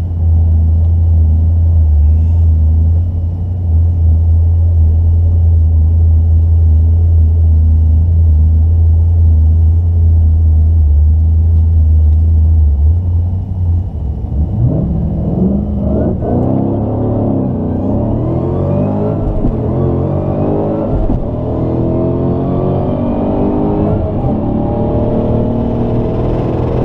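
Mopar drag car's engine idling with a steady low rumble, then revving hard about halfway through as the car launches down the drag strip, its pitch climbing steadily as it accelerates.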